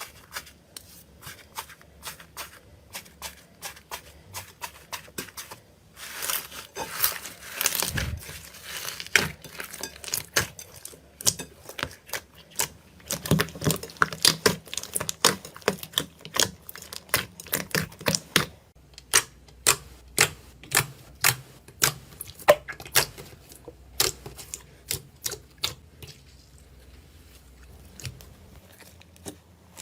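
A crunchy material being squeezed and pressed by hand: a run of sharp, crisp clicks and crackles, a few a second, with denser crackling stretches in the middle.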